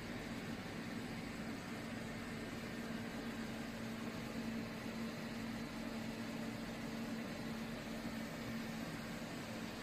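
CNC vertical machining center running under power: a steady mechanical hum with one constant tone.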